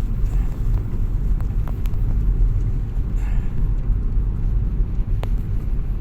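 Steady low rumble of a four-wheel-drive car driving, heard from inside the cabin, with a few faint clicks.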